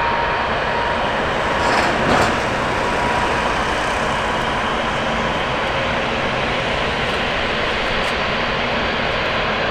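Steady vehicle cabin noise, an even rumble and hiss with a faint steady whine, and a brief louder rustle about two seconds in.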